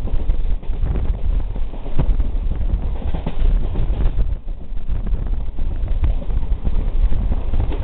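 Passenger train running at speed: a steady low rumble with irregular clacks of the wheels over the rails.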